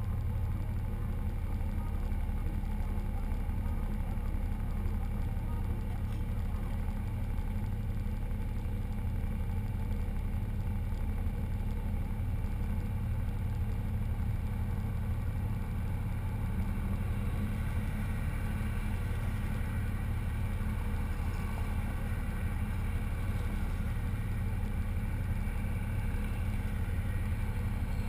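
Car engine running steadily at a constant low speed, with no revving.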